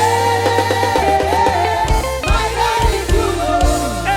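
A live praise-and-worship band playing upbeat African-style gospel music: drum kit, bass and guitar keep a steady groove under a held, wavering melody line.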